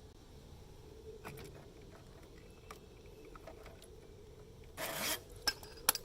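Metal tools and parts being handled: scattered light clinks, a short scrape about five seconds in, then two sharp clicks near the end.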